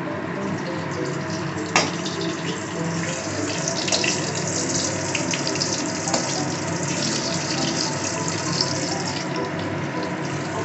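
Halved potatoes frying in hot oil in a pan: a steady sizzle with scattered crackles and a few sharper pops.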